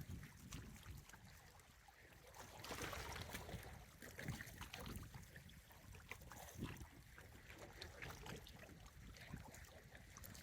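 Faint outdoor wind and water noise: a wavering low rumble of wind on the microphone over a steady wash of water, dotted with scattered light ticks.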